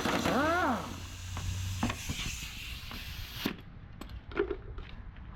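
Rapid rattle of a power tool that stops under a second in, with a short rising-and-falling squeal as it winds down, followed by scattered light knocks and taps.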